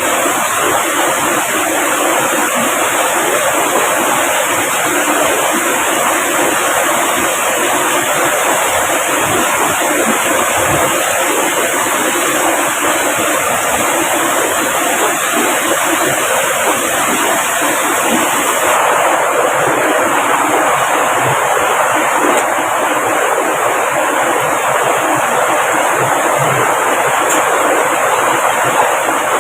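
Loud, steady rush of water, an even hiss and roar that holds at one level without a break.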